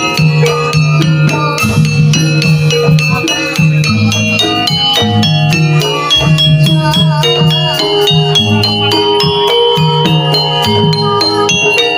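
Javanese gamelan music for a jaranan dance: a quick, busy run of struck notes over low, held tones, playing without pause.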